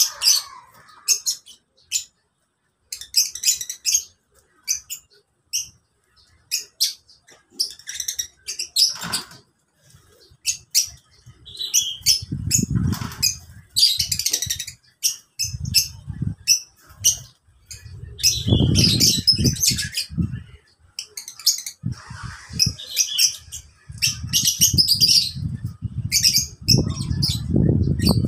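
A flock of lovebirds chirping, with rapid short, sharp, high chirps overlapping throughout. From about halfway through, bursts of low rumble come and go beneath the chirps.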